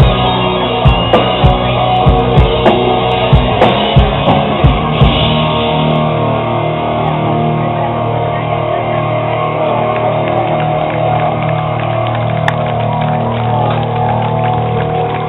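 Rock band playing live: hard, regular drum hits for about the first five seconds, then the drums drop out while guitar and bass chords ring on.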